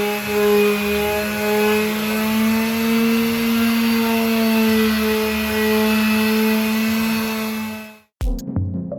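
Electric woodworking power tool running steadily under a carpenter's hands, a sustained motor hum whose pitch sags and recovers slightly. It cuts off abruptly about 8 seconds in, and music with a beat comes in.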